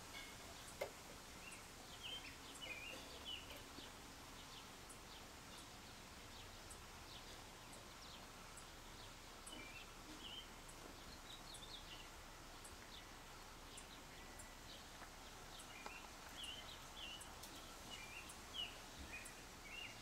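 Faint bird chirps and twitters in a few short bursts over a quiet outdoor background. A soft high ticking comes about once a second, and there are two brief knocks, one about a second in and one near the end.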